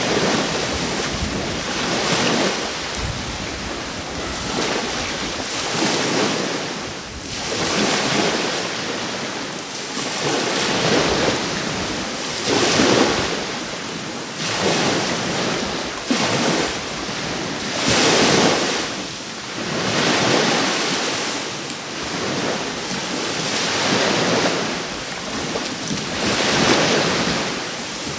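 Sea waves breaking and washing up the shore, the surf swelling and easing every two to three seconds.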